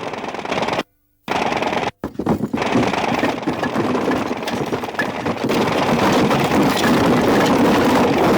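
A loud, rapid, continuous rattling noise that cuts out twice in the first two seconds, then runs on steadily.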